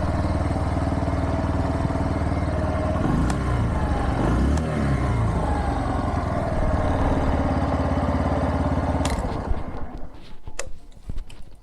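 Bajaj Platina 100's single-cylinder four-stroke engine running at a steady idle. It stops about nine seconds in, followed by a few sharp clicks.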